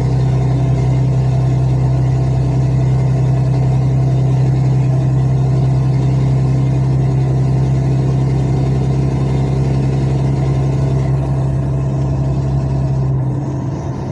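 Truck engine running steadily in slow traffic, a loud, even low drone that eases off slightly near the end.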